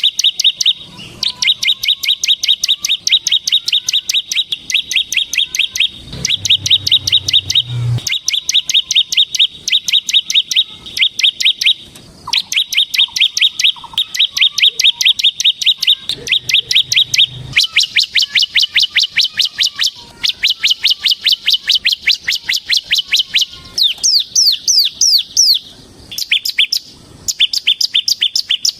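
Ciblek semi (bar-winged prinia) singing in its 'ngebren' style: long, rapid trills of fast-repeated high notes, each lasting several seconds with short breaks between them. Near the end the trill changes to quicker, down-slurred notes.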